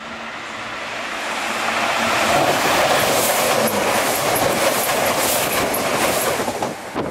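Chiltern Railways diesel multiple unit approaching and passing close at speed. The rush of wheels and air builds over about two seconds, then holds loud with a fast run of sharp clicks as the wheels cross the rail joints, before easing off.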